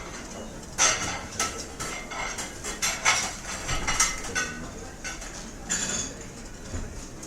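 Restaurant cutlery and dishes clinking and clattering: a run of sharp clinks starting about a second in and easing off near the end.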